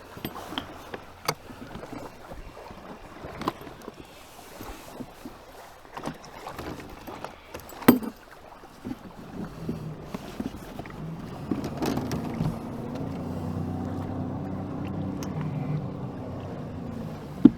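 Scattered knocks and clatter, the sharpest about eight seconds in, then about halfway through a jet ski's engine hum comes in and runs steadily, ending with another sharp knock.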